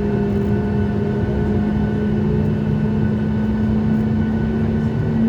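Cabin noise of a Boeing 737 MAX 8 taxiing, its CFM LEAP-1B engines running at low power with a steady hum over rumble. The hum rises slightly in pitch right at the end.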